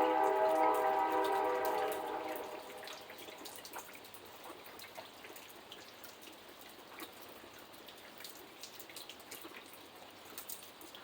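Rain dripping and pattering in scattered drops. At the start a loud horn blast of several steady notes sounds together, then fades away about two and a half seconds in.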